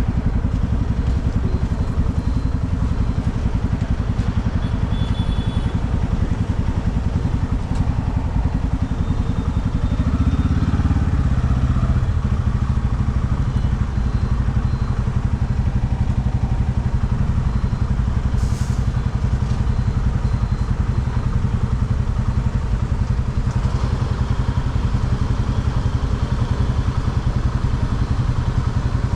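Motorcycle engine running steadily during a ride, with a brief swell in level and a change in the engine note about ten seconds in.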